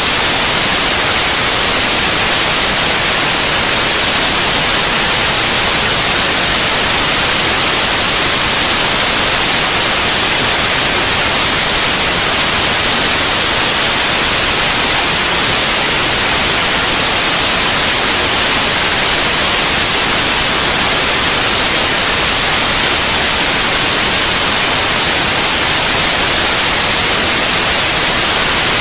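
Loud, steady white noise, an even hiss with no change, played as a sleep aid for babies.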